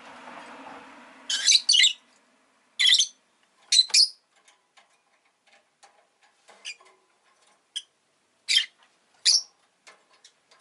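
Rosy-faced lovebird giving loud, sharp, high chirps, mostly in quick pairs, with soft clicks between them. A faint rushing background noise fades out about a second in.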